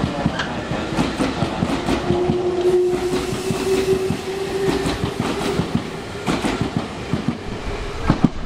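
Nankai Main Line electric commuter train running along the station platform, its wheels clacking rapidly over the rail joints. A motor whine rises slightly in pitch through the middle of the passage, as a train picking up speed would make.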